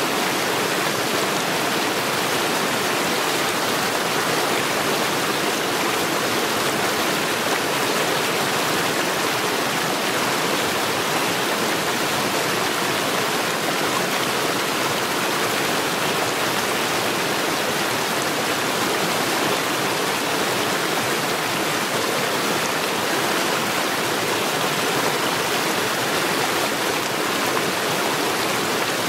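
Stream water flowing over stones, a steady, even splashing without breaks.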